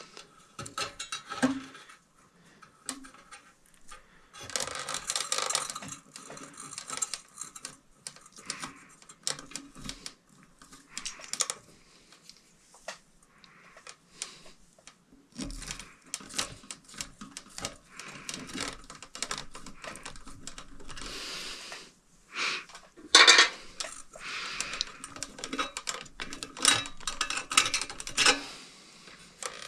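Irregular clicking, clinking and scraping of small metal fan parts and wires being handled during a ceiling-fan installation, with stretches of rustling and one sharp clatter about 23 seconds in.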